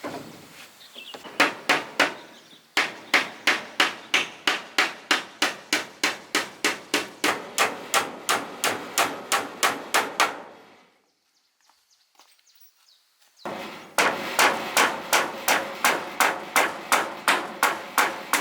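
Steady hammering on wood, sharp strikes at about three a second, in two runs with a pause of about three seconds in the middle.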